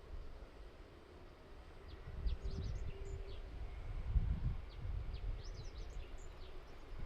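Small birds chirping in quick, high, short notes, in two flurries, over a low, uneven rumble of wind buffeting the microphone that swells twice.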